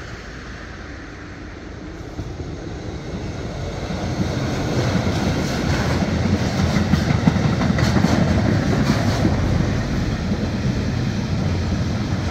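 Freight train of pressurised gas tank wagons, hauled by a class 140 electric locomotive, rolling past: a steady rumble of wheels on rail with clickety-clack, growing louder over the first several seconds as the wagons come close.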